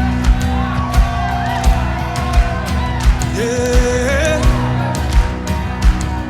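Live worship-band music: a steady drum beat about every 0.7 seconds under held chords, with a gliding vocal line without clear words in the middle.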